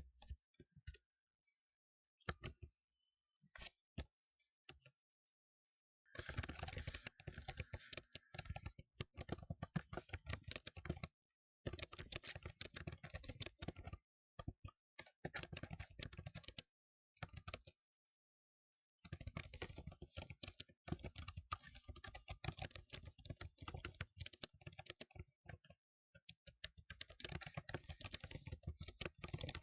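Typing on a computer keyboard, in fast runs of keystrokes a few seconds long with short pauses between. The first few seconds hold only a handful of separate key clicks.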